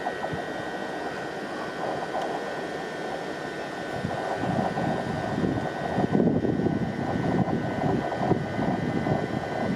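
A train running past, a steady mechanical drone with a rumble that grows louder from about four seconds in, over a few steady high whining tones.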